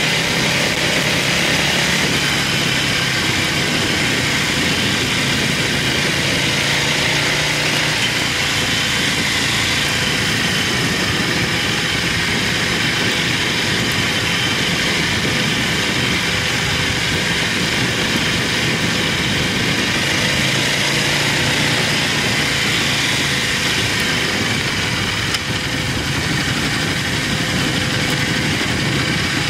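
Buell motorcycle engine running at steady riding speed, its note rising and falling slightly, under a continuous rush of wind and road noise.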